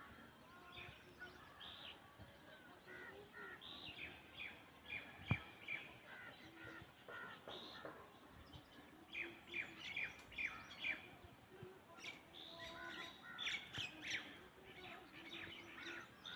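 Birds chirping in quick, repeated short calls, thickest in two spells in the second half, with a single sharp click about five seconds in.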